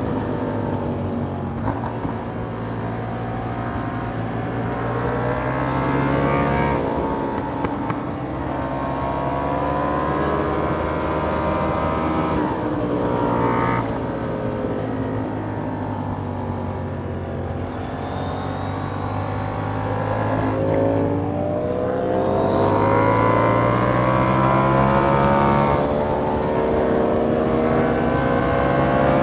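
2021 KTM Duke 890R's parallel-twin engine through a catless Austin Racing GP1R exhaust, ridden hard. The revs climb and fall again and again, with sharp drops about a third of the way in, near the middle, and about two-thirds through.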